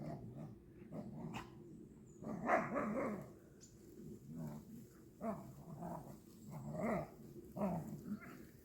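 Golden retriever making a series of short, low growling, grumbling vocalizations, about eight bouts with brief gaps between them.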